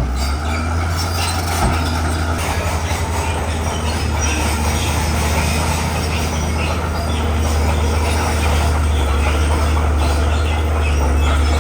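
Komatsu bulldozer at work pushing rock: a steady, loud low diesel drone with the dense metallic clatter and squeal of its steel tracks.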